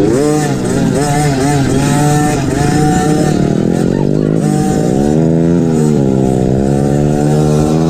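MXF 50 Pró Racing 50cc kids' motocross bike engine revving up and down under the rider's throttle, heard onboard: several quick rises and drops, a long drop in pitch around the middle, then a climb to a steady high rev near the end.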